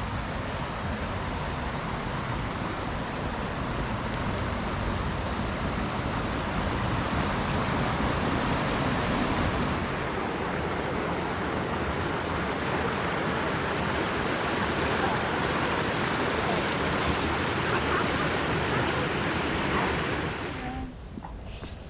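A river rushing, a steady even hiss of flowing water that dies down shortly before the end.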